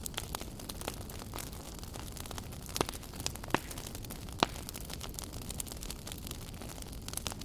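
Wood fire burning in a fireplace: a steady low rumble of flame with irregular crackles and sharp pops, the loudest a few about three to four and a half seconds in.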